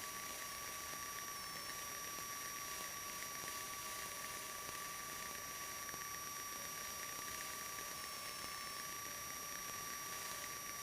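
Steady hiss with two thin, steady high-pitched whines on the cockpit audio of a taxiing 1977 Cessna 150; no engine note stands out.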